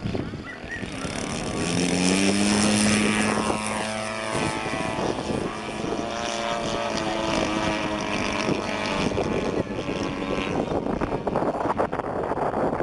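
Radio-controlled aerobatic model airplane's engine and propeller running in flight. The pitch rises about two seconds in and then holds steady, giving way to outdoor noise near the end.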